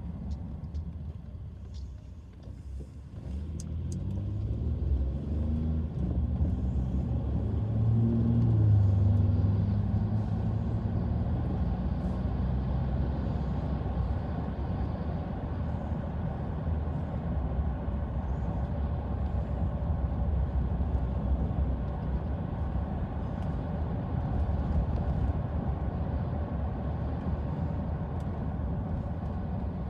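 Car engine and road noise: after a brief lull the engine note rises as the car accelerates, peaks, then eases off into a steady low rumble of cruising.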